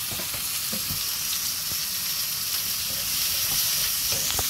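Chopped onion and garlic sizzling steadily in hot oil in a steel wok over a gas flame, with a few light taps and scrapes of a wooden spatula as they are stir-fried.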